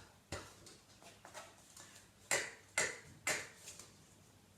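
A voiceless phonics consonant said three times, about half a second apart: three short, sharp puffs with no voice in them, preceded by a few faint ticks.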